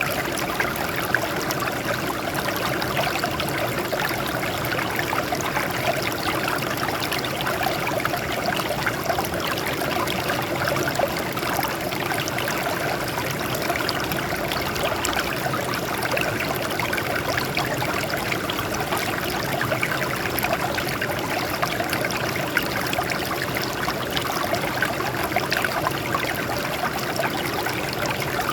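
Water trickling and splashing over rocks as a small stream, a steady even rush with a fine flicker of splashes.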